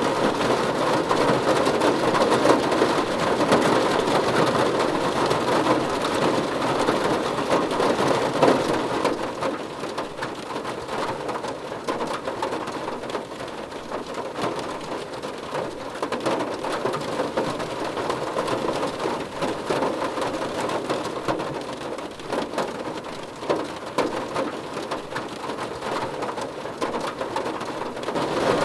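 Steady rain falling, with many separate drop hits over a continuous wash. It eases slightly about nine seconds in and picks up again near the end.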